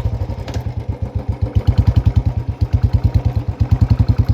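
Royal Enfield Classic's single-cylinder engine running at low revs, with an even, rapid exhaust beat that grows stronger about a second and a half in.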